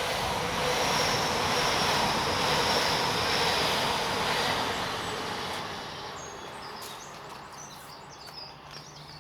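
A train passing on the railway line: its running noise swells up, holds for a few seconds with a thin high tone over it, then fades away about six seconds in.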